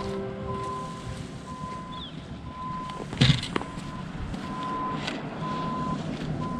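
Vehicle backup alarm beeping at a steady pitch, about one half-second beep per second. A sharp knock about three seconds in.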